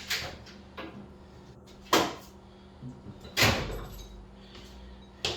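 Hand tools knocking and clunking as they are handled, a few separate sharp knocks, the two loudest about two and three and a half seconds in, the second ringing briefly.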